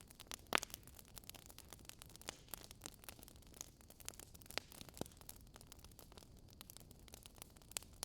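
Wood fire crackling in a fireplace: irregular sharp pops and snaps over a faint hiss, the loudest pop about half a second in.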